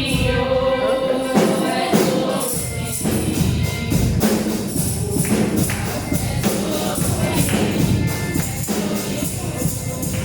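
Congregational gospel praise singing, with a choir of voices and a tambourine shaken and struck in a steady beat.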